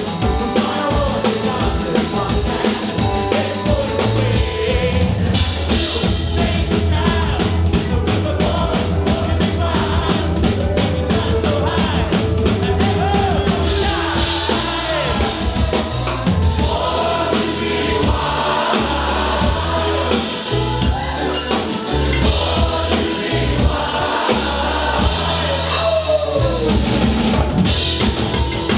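Live band music with singing and drum kit, loud and continuous, recorded from the audience.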